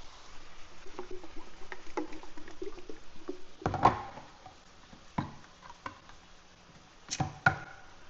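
Kitchen clatter: light taps and knocks of utensils and containers while cooking, with one louder knock about four seconds in and a few more sharp knocks near the end.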